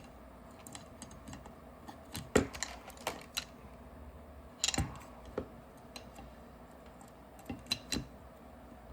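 Irregular small clicks and taps of paintball marker parts being handled while the frame is fitted onto the body and its wires are routed, with a louder knock about two seconds in and little clusters of clicks around the middle and near the end.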